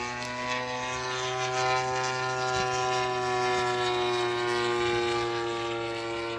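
Gasoline engine of a radio-controlled model airplane running steadily, its propeller pitch stepping up slightly about a second in and easing gently down near the end, over a lower steady hum.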